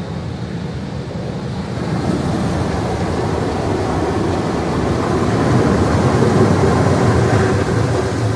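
Automatic car wash spraying water over the car, heard from inside the cabin: a steady rushing wash that builds from about two seconds in and is loudest about two-thirds through.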